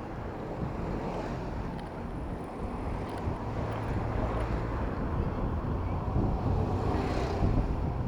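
Wind rumbling on the microphone while riding a bicycle in city traffic, with motor vehicles running nearby; the noise grows steadily louder, with a rising hiss about seven seconds in.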